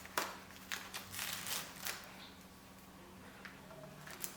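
Faint handling noises: a few light clicks and rustles, bunched in the first two seconds with a couple more near the end, over a steady low hum.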